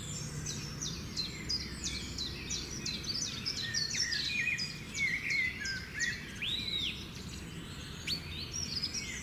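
Yellowhammers chirping, a rapid string of short, high, down-slurred call notes overlapping one another, over a steady low background rumble.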